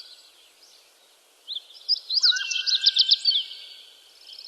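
A bird calling in a quick run of loud, high chirps for about two seconds, starting about a second and a half in, with a fainter high trill from birds behind it.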